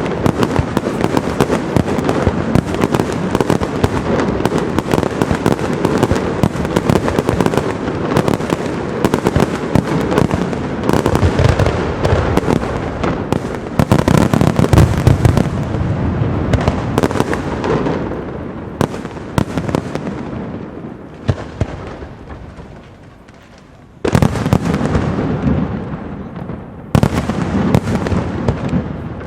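Castillo aerial fireworks display: a dense, continuous barrage of bangs and crackling shells that dies away over several seconds about two-thirds of the way through, then starts again suddenly with two fresh volleys near the end.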